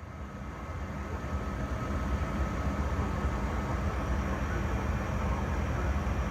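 Jet airliner's turbofan engines rumbling, growing louder over the first two seconds and then holding steady, with a faint steady whine over the rumble.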